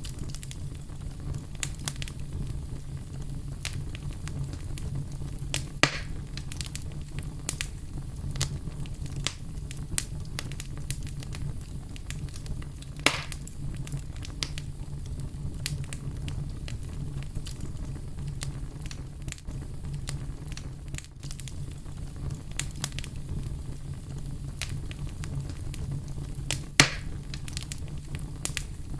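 Fire crackling steadily, with many small sharp snaps over a low steady rumble and a few louder pops about 6, 13 and 27 seconds in.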